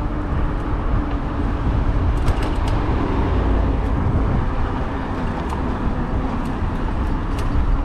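Steady riding noise from a moving e-bike in traffic: a heavy low rumble of wind on the microphone and road noise, with a faint steady hum and scattered light ticks.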